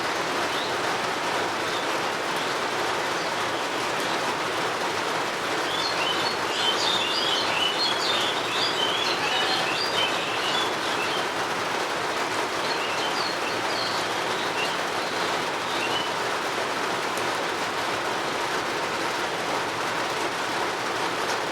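Steady rain falling, an even hiss, with small birds chirping: a busy flurry of quick high chirps about a quarter of the way in, then a few scattered calls later.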